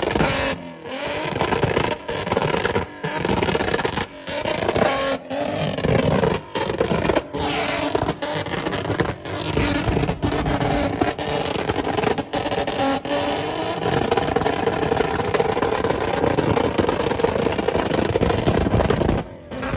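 A performance car's engine being revved over and over, with short blips and sharp drops between them about once a second.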